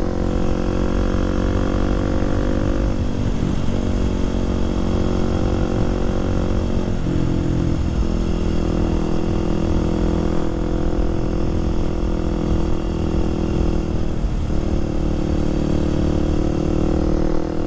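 Kawasaki KLX300SM supermoto's single-cylinder four-stroke engine running under way. Its engine note holds steady between changes in pitch about 3, 7 and 14 seconds in.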